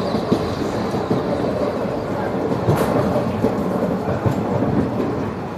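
Express passenger train running along the track: a steady rumble with irregular short knocks, one sharper knock about three seconds in.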